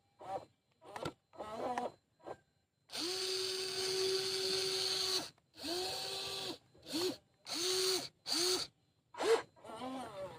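Small electric motors of a toy RC excavator whirring like a drill. There is one steady run of about two seconds near the middle, then four short bursts. Short vocal sounds come before and after.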